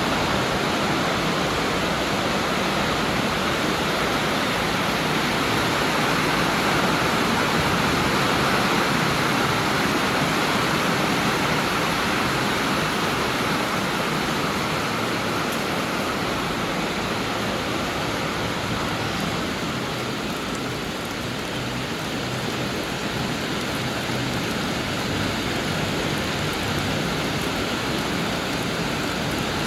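Heavy rain falling hard and steady.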